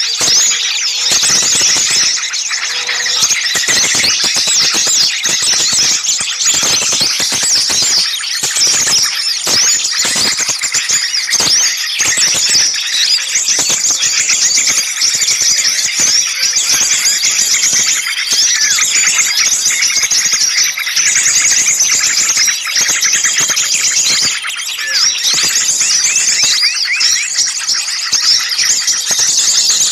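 A dense, noisy chorus of many small songbirds chattering, chirping and trilling all at once without a break, high-pitched and fast. It is a bird-lure recording of agitated small-bird calls, used to draw small birds in.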